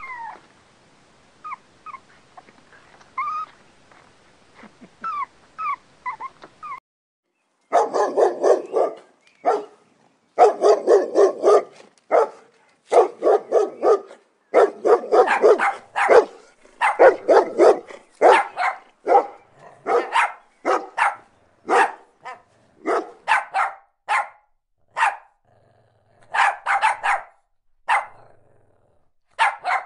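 A dog barking over and over, many barks in quick runs with short gaps between, starting about eight seconds in. Before that, only faint short high chirps over a light hiss.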